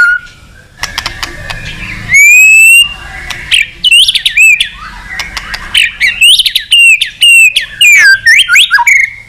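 White-rumped shama singing energetically: a varied run of loud clear whistles and quick sliding notes, with one long rising whistle about two seconds in. This is the full song that male shamas use to challenge a rival.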